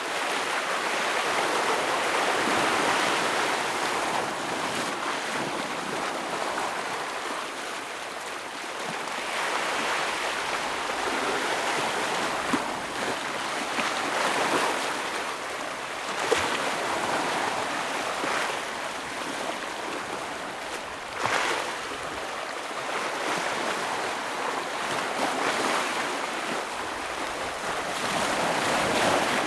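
Ocean waves breaking and washing over rocks, the surf swelling and ebbing every few seconds, with a few short sharp splashes.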